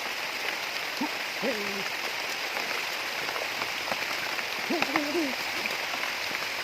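Steady rain falling, a constant even hiss. Two short, low, wavering hoot-like calls break through, about a second and a half in and again around five seconds.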